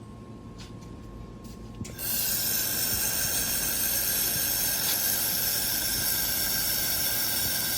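Handheld laser welder running a weld, heard as a steady hiss of shielding gas with several high, steady whistling tones over it. It starts suddenly about two seconds in.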